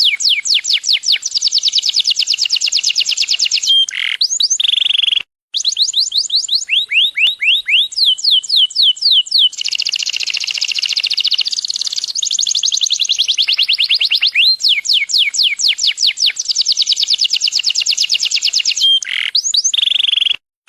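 Yellow domestic canary singing a long, loud song of rapid trills, each phrase a fast run of repeated notes sweeping downward in pitch, several per second, with the sound cutting out briefly about five seconds in.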